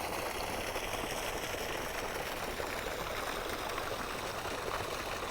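Steady rushing of running water, which is probably draining out of a basement.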